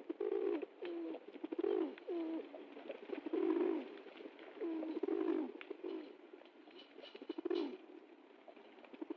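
Pigeons cooing: low coos follow one another about a second apart, then die down near the end.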